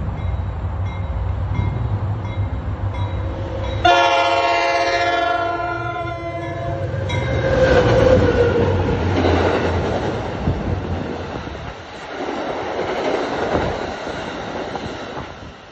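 A passenger train's diesel locomotive rumbling closer, then its multi-note air horn sounding for about three seconds from about four seconds in, the pitch dropping as it passes close by. After that, the rumble and clatter of the coaches rolling past at speed, fading near the end.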